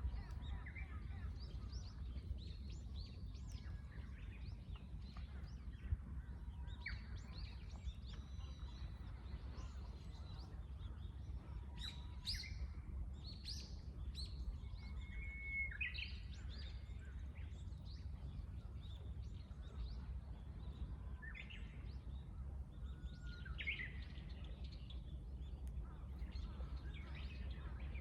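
Wild birds chirping and calling, with many short calls scattered throughout and several rising or falling, over a steady low background rumble.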